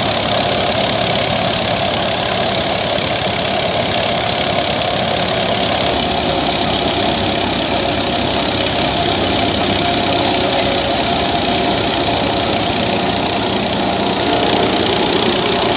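Massey Ferguson 240 tractor's three-cylinder diesel engine running steadily under heavy load while driving a thresher, mixed with the thresher's machinery noise.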